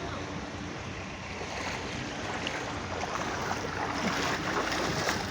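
Car driving slowly through floodwater: a steady wash of water against the car over the low running of its engine.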